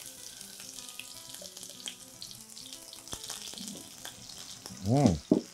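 Onions sizzling in hot oil in a frying pan. The hiss starts as they go in and carries on steadily while they are stirred with a spatula.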